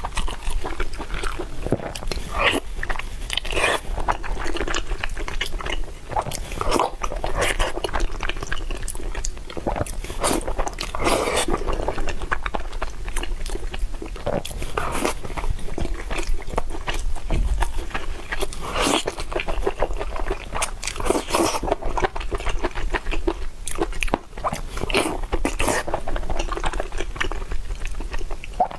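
A person eating spicy noodles and fried tendon close to the microphone: steady chewing and biting, with many crunchy bites.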